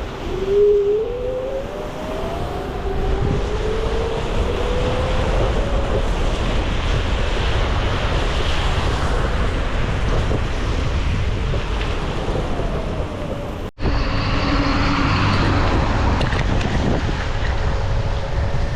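Wind buffeting the microphone on a moving electric scooter, over the motor's whine, which rises in pitch as the scooter speeds up in the first few seconds and then holds steady. The sound breaks off for an instant about 14 seconds in.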